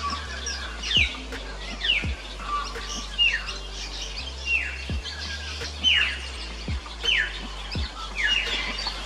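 Birds giving short falling chirps, roughly one a second, over background music with low bass notes.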